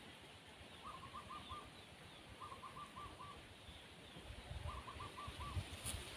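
Spotted dove cooing: three short phrases of about four notes each, a second or so apart, with low thumps in the second half.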